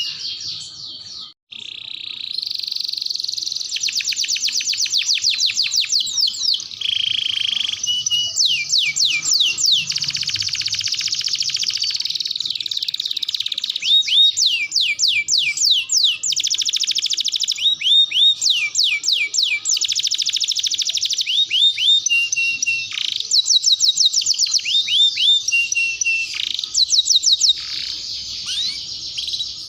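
Canary singing a long, continuous song of rapid trills and rolls, each phrase a quick run of repeated notes, with short held whistles between them. The song breaks off briefly about a second and a half in.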